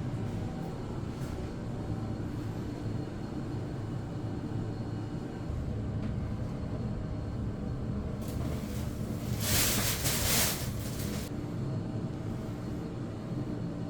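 ThyssenKrupp TK-50L high-speed elevator heard from inside the car while it travels: a steady low rumble, with a brief rushing hiss about ten seconds in.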